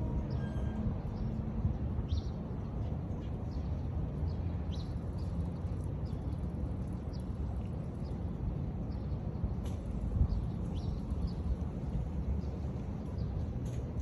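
Birds chirping outdoors: short high chirps scattered throughout, over a steady low rumble.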